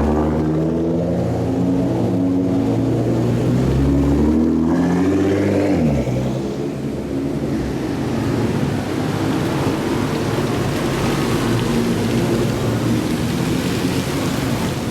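Supercar engines revving, the engine note stepping up and down in pitch and climbing then falling about five seconds in. After that, a steady loud rush of engine and road noise.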